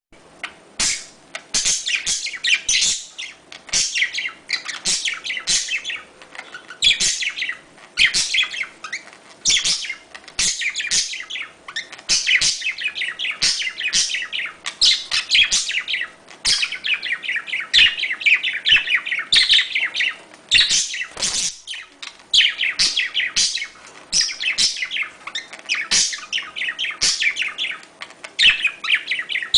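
Budgerigars chattering and warbling in courtship: a dense, continuous stream of fast high chirps, with frequent sharp clicks.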